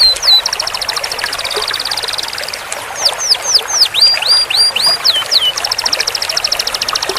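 Canary singing: a series of quick falling whistled notes and two long, fast, even trills (rolls), the first starting about half a second in and running for about two seconds, the second starting a little before the end.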